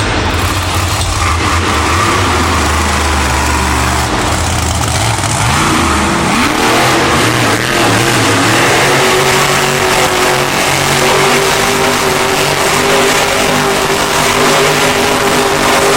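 Monster truck engine running and revving loudly in an arena. It runs low and steady at first, dips about six seconds in, then climbs and holds at a higher pitch.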